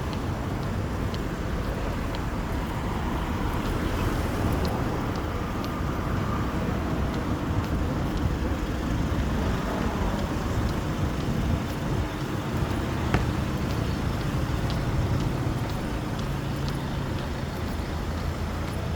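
Steady vehicle noise: a continuous low rumble, with a faint low hum joining in during the second half.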